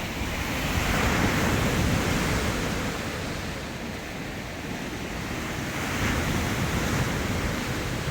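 Ocean surf breaking on the shore, a steady wash of waves that swells louder about a second in and again near six seconds as waves break.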